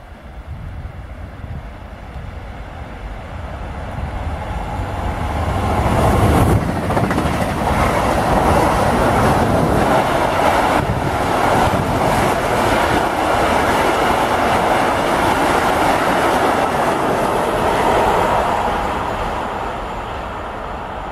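Two trains passing through a station at once: an electric-locomotive-hauled passenger train and a freight train of open wagons. The rumble and wheel clatter build over the first few seconds, come in loud about six seconds in and stay loud for about twelve seconds, then fade.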